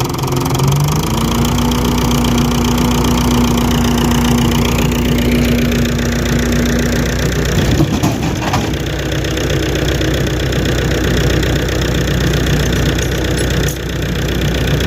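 Fordson Super Major tractor's four-cylinder diesel engine running steadily, its speed shifting about a second in and again around seven to eight seconds in.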